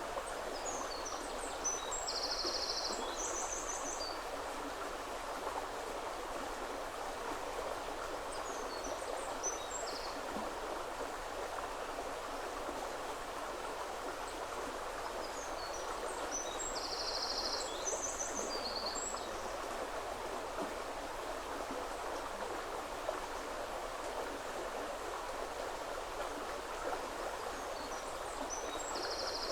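A river flowing with a steady rush. Over it a small songbird sings short, high trilling phrases four times, several seconds apart.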